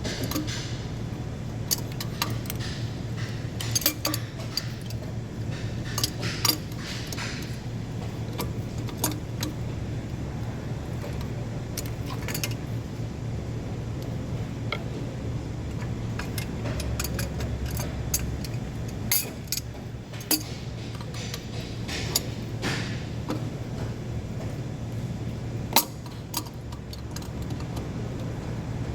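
Metal hand tools clinking and clicking against engine parts at irregular intervals, over a steady low hum.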